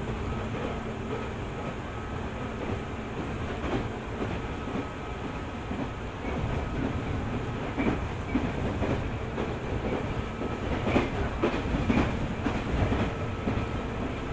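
JR 205 series 600 subseries electric train running along the line, a steady rumble with a faint steady tone, its wheels clacking over rail joints now and then, several times in the second half.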